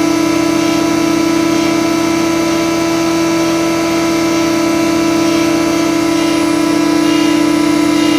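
SAC RS53S 20-inch planer running with no board in it, its Tersa cutterhead spinning and the feed works turning, making a loud, steady hum with one strong low tone.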